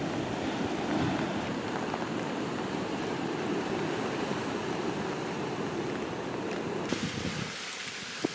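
Storm noise of wind and rushing water, a dense steady rush. About seven seconds in it changes abruptly to a thinner, higher hiss.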